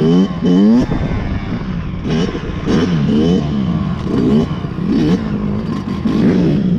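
Several motorcycle engines revving in quick throttle blips, the pitch jumping up and falling back again and again and overlapping, over a steady bed of idling engines.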